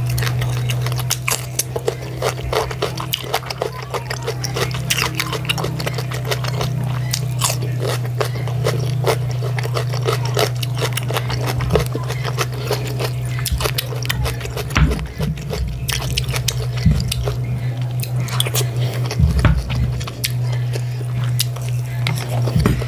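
Close-miked eating: wet chewing and biting of rice stew and chicken, with irregular smacks and clicks and a fork scraping the plate, over a steady low hum.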